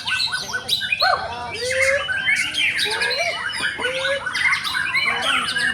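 White-rumped shamas singing, several birds at once: a dense, unbroken tangle of whistles, slurred upward and downward notes, rattles and harsh squawky calls overlapping each other.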